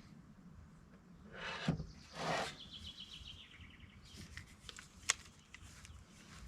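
Two short swishing rubs, then a small bird's quick trill of repeated high notes that falls in pitch over about a second and a half, followed by scattered light clicks and one sharp click about five seconds in.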